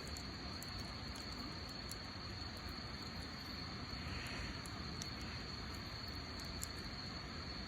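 Wood campfire burning with faint, scattered crackles over a steady hiss, with a constant high-pitched insect trill behind it.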